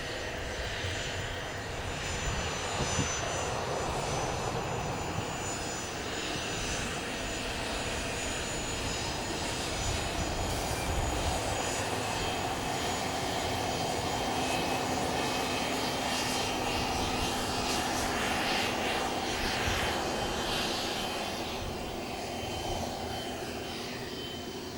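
Business jet engines running steadily, a continuous jet rush with a thin high whine, easing slightly near the end.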